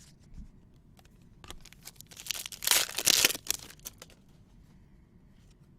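A trading-card pack wrapper being torn open, with a rip about two seconds in that lasts about a second and a half, and light crinkling and handling ticks around it.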